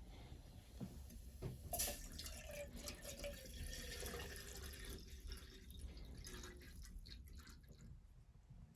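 Water pouring and dripping, with a few light clicks and knocks.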